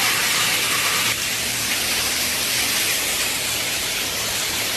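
Steady rush of flood water, a constant hiss-like wash with no break.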